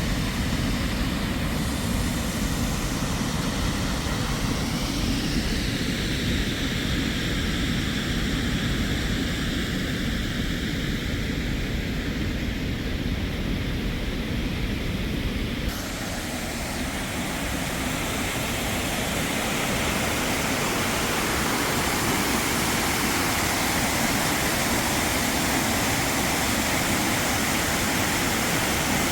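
Floodwater rushing over a river weir: a steady, dense rush of water. About two-thirds of the way through, the sound changes abruptly to a brighter, hissier rush.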